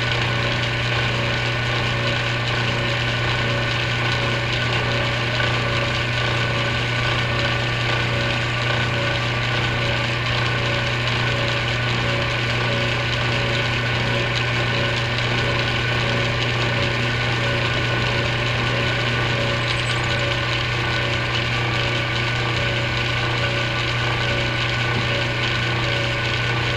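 Atlas metal lathe running steadily while a drill bit in its headstock chuck bores through a 5/8 rod held on a crotch center in the tailstock. A steady motor hum is heard, with the scraping of the bit cutting the rod.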